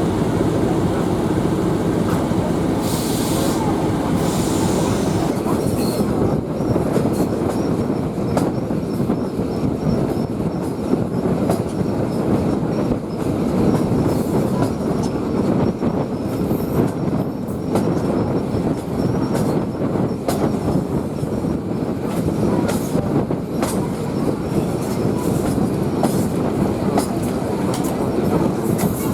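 Train running along the track: continuous rumble of the carriages, with wheels clattering over the rail joints and some squeal from the wheels. A brief high hiss comes about three seconds in.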